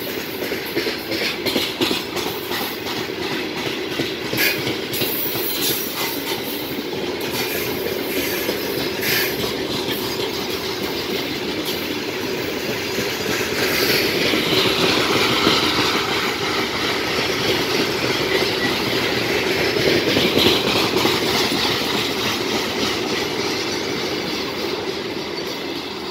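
Freight train wagons rolling past on the rails, wheels clattering over the rail joints in a continuous clickety-clack, a little louder in the middle.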